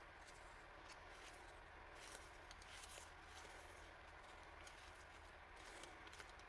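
Faint, scattered light clicks and short rustles of small items and packaging being handled, over a quiet low hum.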